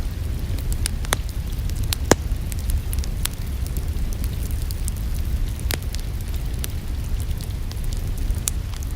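Wood fire burning in a fireplace: a steady low rush with scattered crackles and several sharp pops.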